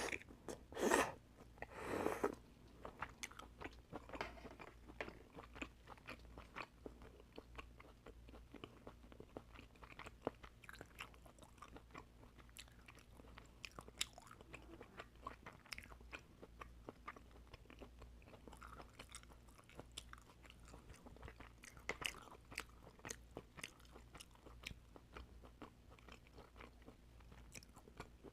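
A person eating oysters close to the microphone: chewing with wet mouth sounds and many small clicks. Three louder bursts come in the first two seconds or so, then the eating goes on softly.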